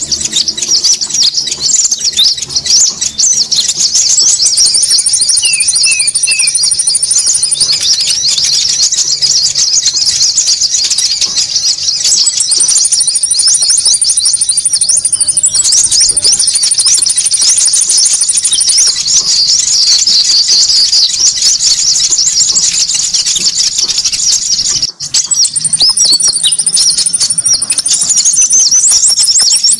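Bird-lure recording of konin calls: a dense, busy chorus of rapid, high-pitched chirps with long, even, very high trills coming in and out several times. The sound briefly drops out about 25 seconds in.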